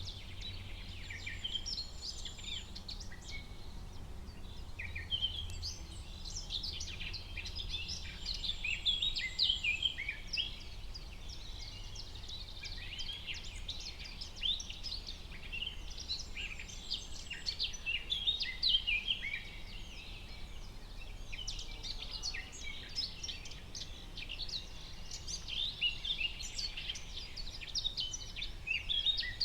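Forest ambience of several songbirds chirping and trilling at once, with a faint low background rumble.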